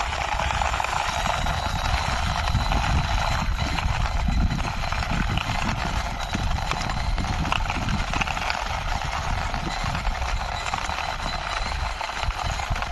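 Plastic toy mixer truck pushed along by hand, its wheels rolling with a steady scraping rumble.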